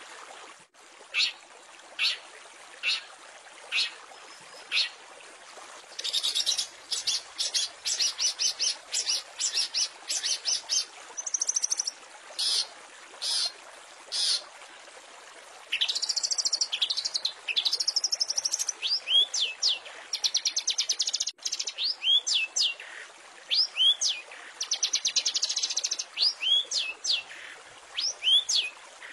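Long-tailed shrike (cendet) song: sharp single notes about once a second, then fast chattering runs, then swooping whistles and rapid trills from about halfway, over a steady hiss.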